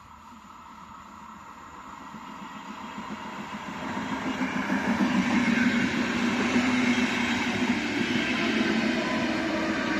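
ČD class 471 CityElefant double-deck electric multiple unit approaching and passing close by: the noise of its wheels on the rails grows steadily louder over the first four or five seconds, then stays loud and even as the double-deck cars go past.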